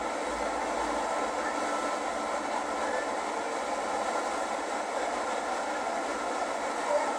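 Steady rushing roar of Niagara Falls' water, heard from aboard the Maid of the Mist tour boat, at an even level throughout.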